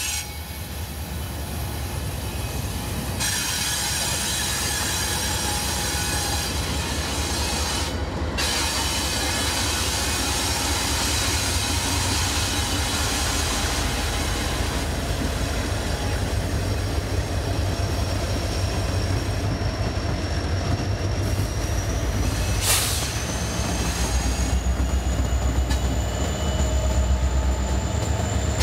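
A train rolling by: a low steady engine drone under many high steel-wheel squeals and rail noise. There is a sharp clank about 23 seconds in, and a thin squeal rises slowly in pitch near the end.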